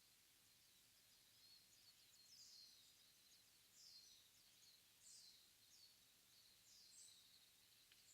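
Faint early-morning forest ambience: a wild bird calls in short, high notes that sweep down in pitch, about one a second, over a faint steady hiss. These are not Mugimaki flycatcher calls.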